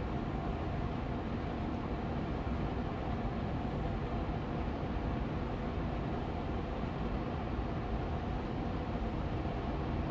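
Austin Air Allergy Machine air purifier fan running steadily on medium speed, a constant hum of moving air with a faint steady tone in it.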